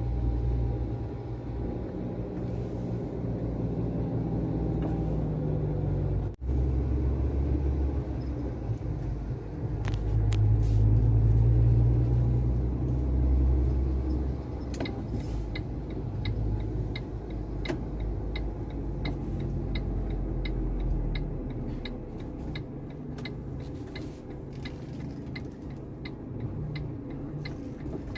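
Iveco truck engine running with a low rumble, pulling harder for a few seconds about ten seconds in. In the second half a regular ticking, a little over one tick a second, runs alongside it.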